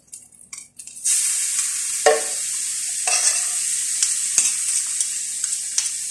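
Mashed fava beans and spices frying in oil in a stainless steel frying pan, the sizzling starting suddenly about a second in and then running steadily. A metal spatula scrapes and knocks against the pan as the food is stirred.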